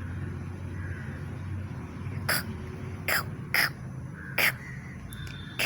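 Five short, harsh animal calls spaced unevenly over a few seconds, each a brief rasping cry, over a steady low hum.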